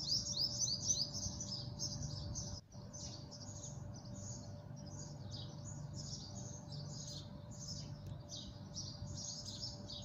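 Many small birds chirping in a continuous, busy chatter, over a faint steady hum.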